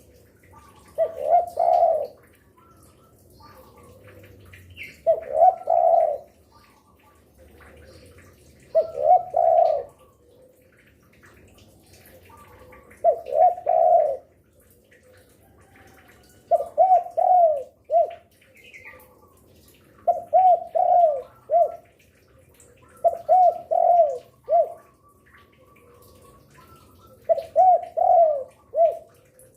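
Spotted dove cooing over and over. Each short phrase is made of three or four low coos and comes about every three to four seconds. Faint chirps from other birds sound in the background.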